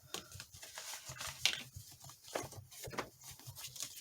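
Paper envelopes being handled and stacked on a table: irregular rustling and light taps, the sharpest about one and a half seconds in.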